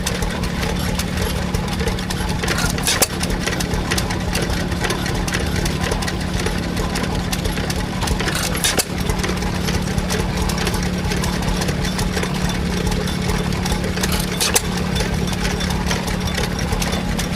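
An engine running steadily with an even hum, cut by three sharp cracks about six seconds apart.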